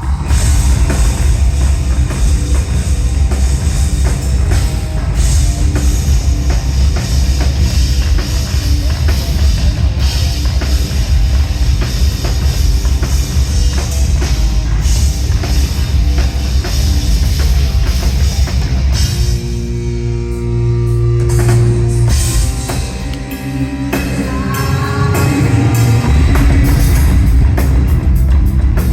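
Live hard rock band playing loud with drum kit and distorted guitars, heard through a venue PA. About twenty seconds in, the full band drops back to a few held notes before kicking in again.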